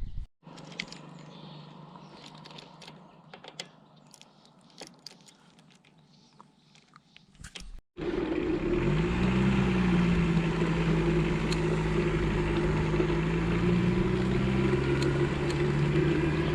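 Quiet surroundings with a few faint clicks. Then, after a cut, a motor vehicle's engine runs loud and steady, its pitch rising briefly and then holding level, with a rushing noise under it.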